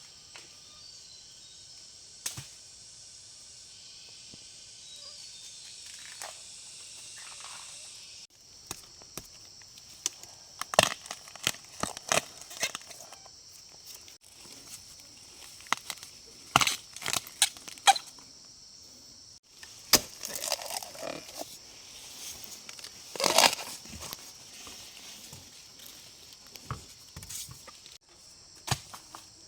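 Plants being broken and trodden through: irregular sharp cracks, snaps and crackling, densest about halfway through and again near the three-quarter mark. A steady high insect buzz runs under the first third.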